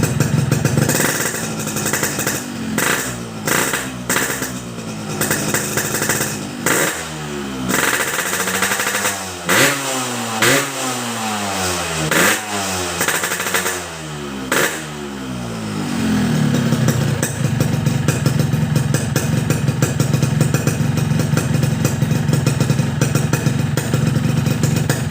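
Yamaha RX-King's two-stroke single-cylinder engine breathing through a Boban C33 aftermarket exhaust, revved in a long run of quick throttle blips, the pitch rising and falling again and again, then dropping back to a steady idle about two-thirds of the way in.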